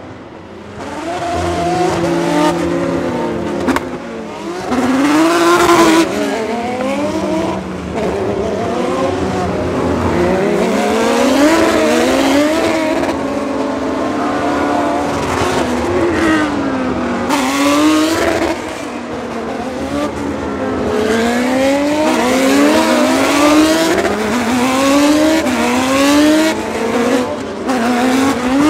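Several GP3 race cars' V6 engines running together, their pitches repeatedly climbing and dropping in overlapping sweeps as they rev through gear changes.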